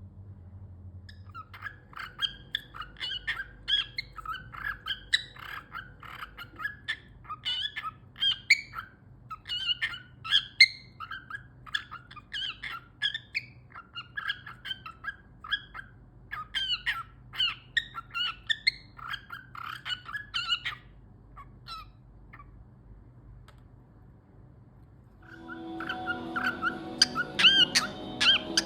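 Cockatiel chirping in rapid runs of short calls, with a pause of a few seconds in the last third. Near the end the chirping comes back louder over steady low tones.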